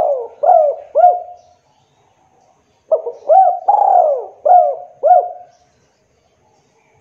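A derkuku dove cooing. The end of one cooing phrase is followed, about a second and a half later, by a full phrase of five or six quick coos. Each coo flicks up and down in pitch.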